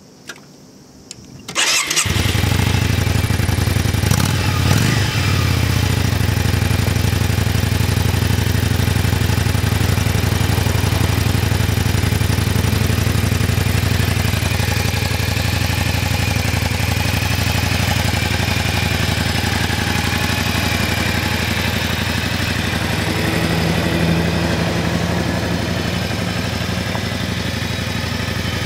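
Yamaha Drag Star 400's air-cooled V-twin engine heard through its stock muffler: started about two seconds in, a brief rise in engine speed a couple of seconds later, then idling steadily.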